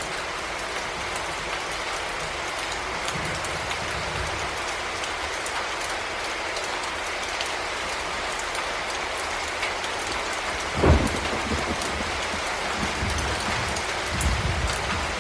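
Heavy rain falling steadily, a dense even hiss. Two brief low thumps come through it, about two-thirds of the way in and again near the end.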